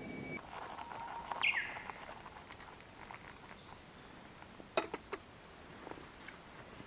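A steady low rushing noise stops about half a second in; then a bird gives a short falling chirp, among scattered small ticks, and two sharp clicks follow a little later, the loudest sounds.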